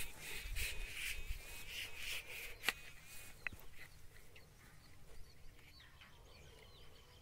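Faint bird chirps, after a pulsing, wavering sound that fades out in the first few seconds; a sharp click about three seconds in.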